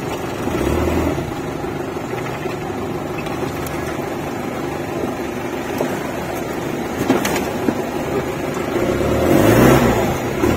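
Off-road 4x4's engine running as the vehicle crawls over rough ground, heard from inside the cab, with a few knocks about two-thirds of the way through. The engine swells louder near the end.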